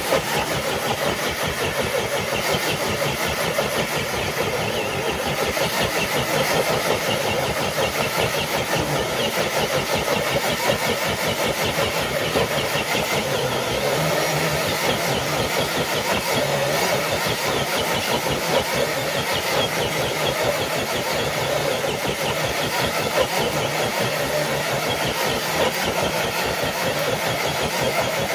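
A motor running steadily with a fast, even pulse and no change in pitch or level.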